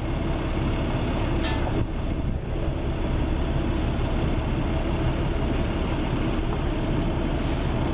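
Steady background rumble and hum, even throughout with no distinct events.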